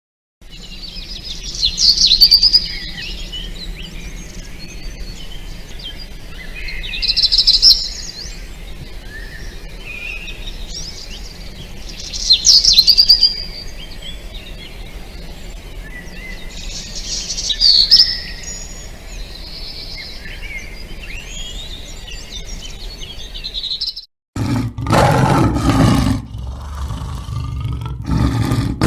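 Birdsong: one bird sings a loud, high phrase about every five seconds over softer chirping from other birds. About 24 seconds in it cuts abruptly to a loud, deep animal roar.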